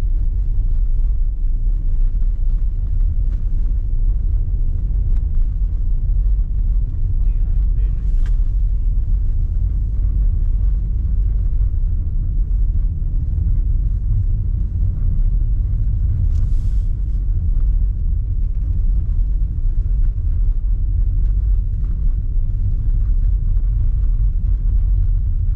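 A car driving, with a steady low road and engine rumble. A brief hiss comes twice, about a third of the way in and again past halfway.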